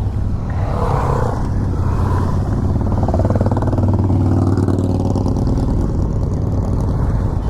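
Yamaha MT-10's crossplane inline-four engine running steadily as the motorcycle is ridden.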